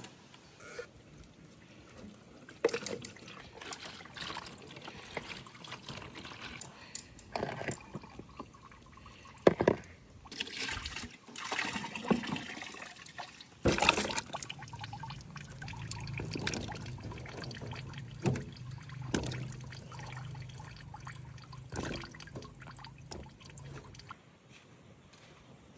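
Water being poured and splashed in irregular bursts, with knocks and clatter of handling, and a low steady hum through the second half.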